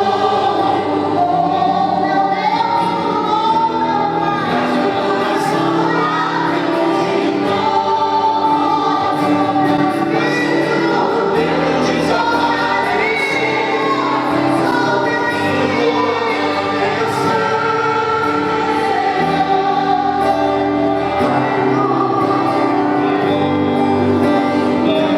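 Live gospel worship song with a choir singing over sustained instrumental accompaniment.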